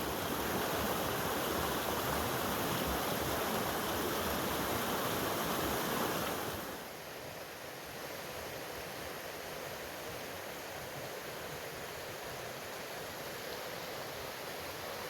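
Steady rushing noise with no distinct events, which drops abruptly to a quieter, steady hiss about seven seconds in.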